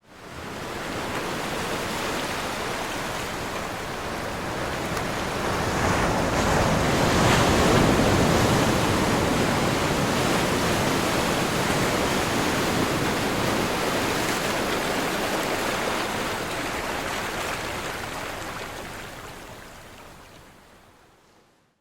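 Ocean surf: waves breaking and washing in a continuous roar of water. It fades in, swells loudest about seven to nine seconds in, then slowly fades out near the end.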